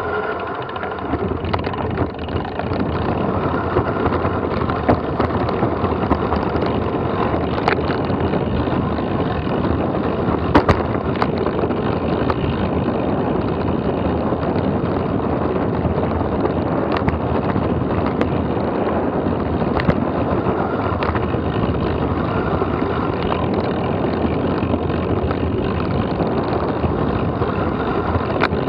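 Steady rush of wind over the microphone while moving fast downhill, with tyres crunching and a frequent rattle of clicks and knocks from riding over rough, stony trail.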